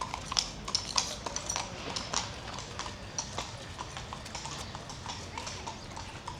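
Footsteps clicking on hard paving, several sharp steps a second and overlapping, louder in the first half and then fading.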